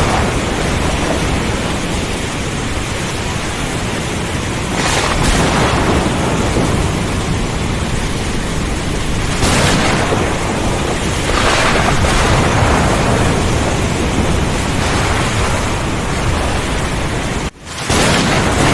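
Thunderstorm: heavy rain and strong wind as a dense, steady rush with a deep rumbling underneath, swelling louder several times as thunder rolls. The sound cuts out for a split second near the end, then resumes.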